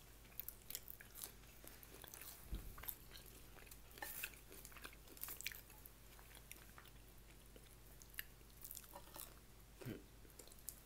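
A person chewing and biting food, with soft irregular crunches and wet mouth clicks.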